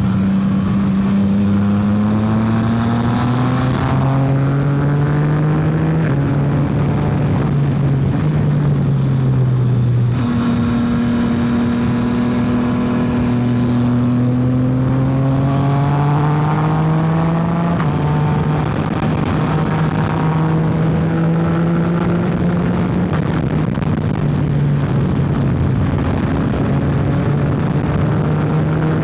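Yamaha XSR900's inline three-cylinder engine pulling hard under a rider. Its pitch climbs and then drops sharply at each of several gear changes, over a constant rush of wind.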